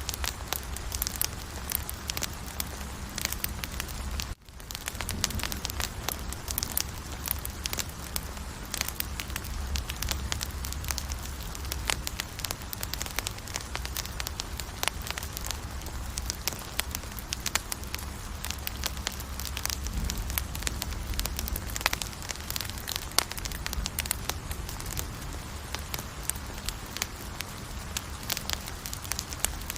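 Campfire crackling, with many sharp pops and snaps over a steady low rush of burning. The sound cuts out for a moment about four seconds in.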